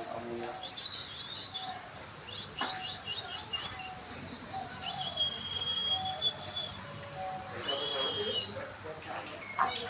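Budgerigars chirping and whistling: short squeaky chirps and glides, with a couple of longer held whistle notes in the middle and near the end.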